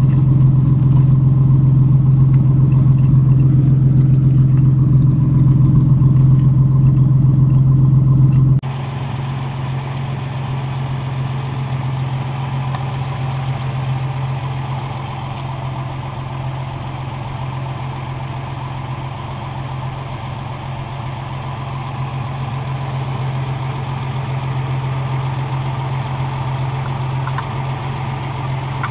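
Austin A90 Six's C-Series straight-six engine idling steadily. It is heard first at the tailpipe, loud with a deep hum. About eight and a half seconds in it drops suddenly to a quieter, less bassy sound from the open engine bay.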